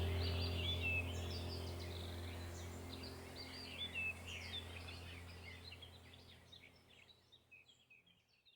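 Many small birds chirping and twittering over a low steady drone, the whole track fading out gradually to silence near the end.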